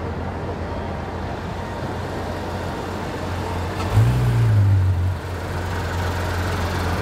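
Car engine running steadily at low revs, with a short rev lasting just over a second about four seconds in.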